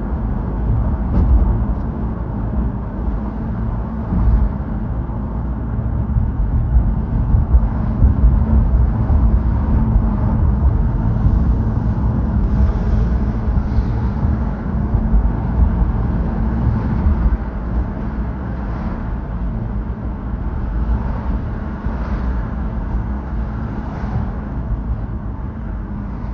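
Steady low rumble of motor vehicle road noise, with faint brief swishes now and then.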